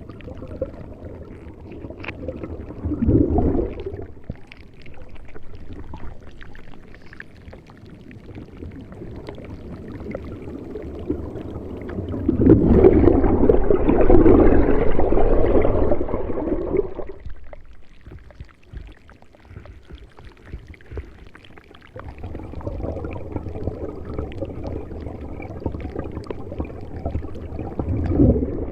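Water rushing and splashing in uneven surges. It swells loudest for several seconds about halfway through, drops almost away, then picks up again.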